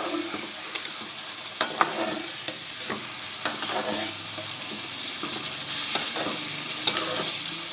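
Chicken and spice masala sizzling in hot oil in a karahi, a steady frying hiss, while a spoon stirs it with a few sharp clicks and scrapes against the pan. This is the bhuna stage, the spices being fried so they don't stay raw.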